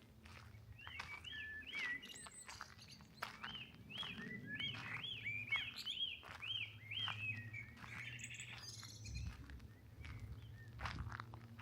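A songbird singing a long phrase of quick, repeated arching whistled notes, which stops about seven seconds in, with fainter calls later. Soft footstep crunches sound underneath.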